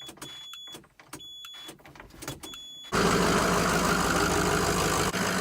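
Truck cab chime beeping in three short runs with clicks, then about three seconds in the 6.0 Powerstroke V8 turbodiesel catches suddenly and runs loud and steady in a sub-zero cold start. The owner believes its glow plugs are not working.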